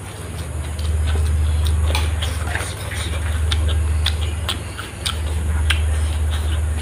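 Close-up chewing of a mouthful of rice eaten by hand, full of small wet mouth clicks, over a loud low rumble that swells and dips every second or two.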